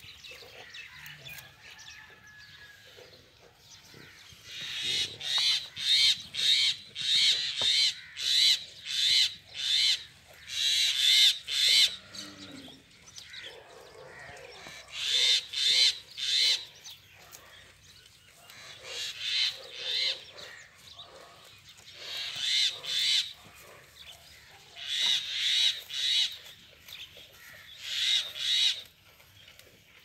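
A bird calling loudly over and over, in runs of several short calls under a second apart, with short pauses between the runs.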